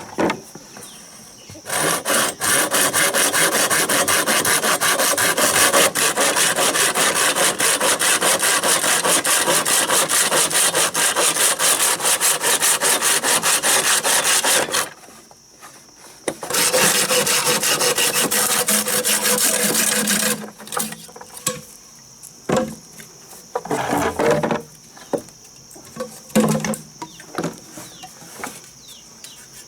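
Wood being sawn in two long, steady bouts, the second shorter, followed by a few scattered knocks and scrapes of wood.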